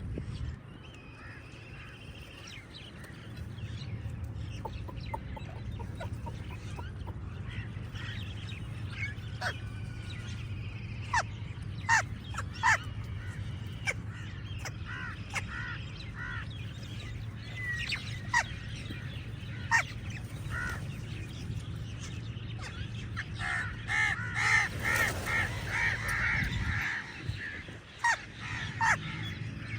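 Crows cawing, with short harsh calls scattered throughout and a quick run of calls about three-quarters of the way through, over a steady low rumble.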